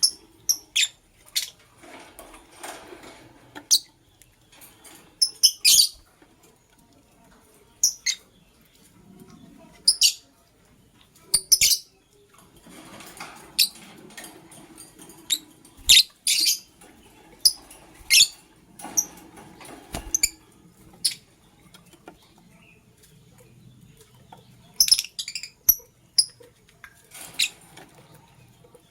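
Lovebirds chirping: short, shrill, high-pitched chirps every second or two, sometimes several in quick succession, with bouts of soft rustling between.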